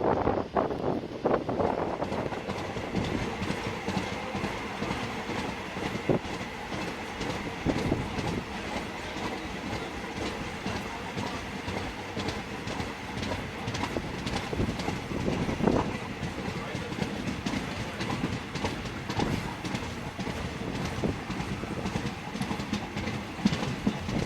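A train of wagons hauled by a Class 24 steam locomotive rolling along the track: a steady running noise with many wheel clicks over the rails.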